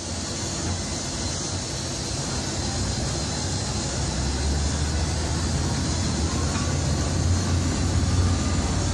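Storm wind and heavy sea: a steady roar with a deep rumble underneath, slowly growing louder.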